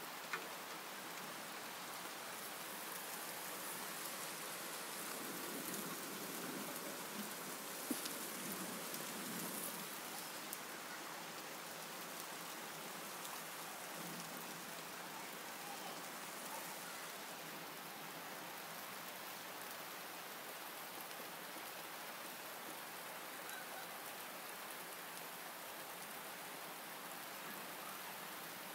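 Steady rain from a small thunderstorm falling on grass, trees and pavement, with a few brief sharp ticks.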